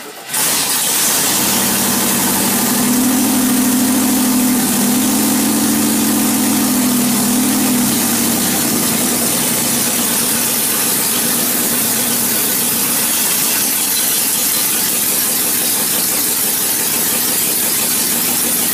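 Rover V8 engine catching almost at once on its first start after decades laid up, then running steadily at idle. For about the first eight seconds it runs a little higher, with a strong low hum, then settles.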